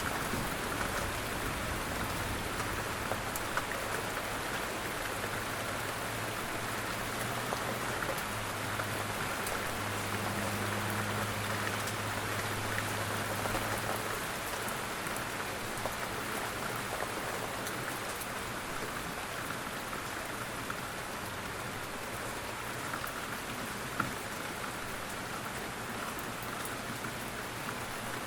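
Steady rain falling on a surface, an even hiss with scattered drop ticks, one sharper tick about two-thirds of the way in. A faint low hum runs under it and fades out about halfway through.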